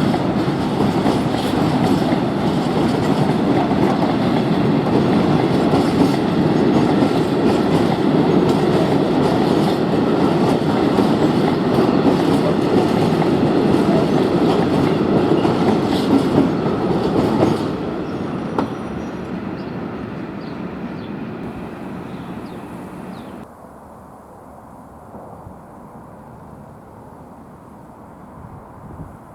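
A train rolling past close by with steady wheel clatter on the rails. About 17 seconds in, it starts to fade as it moves away, then drops off sharply about 23 seconds in, leaving only a faint background.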